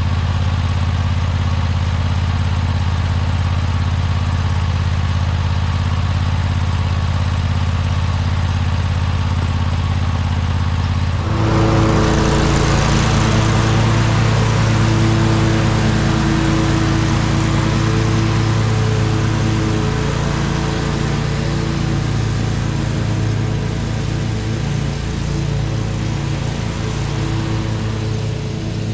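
Riding lawn mower engine running steadily. About eleven seconds in, the sound changes suddenly to a louder, rougher running with more hiss, which lasts to the end.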